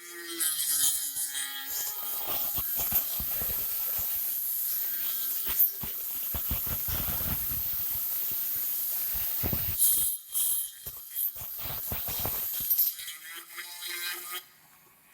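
Rotary tool with a 3 mm bit grinding through the wall of a clay pot: a steady high hissing grind with gritty scraping, which stops about ten seconds in and then comes in a few short bursts before dying down near the end.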